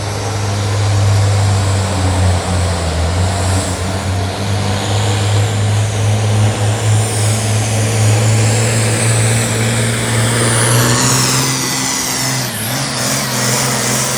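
Pulling tractor's engine running hard under full load as it drags the weight sled down the track: a steady, heavy engine note, with a high whine climbing over the second half. About twelve and a half seconds in, the engine note drops as the run ends.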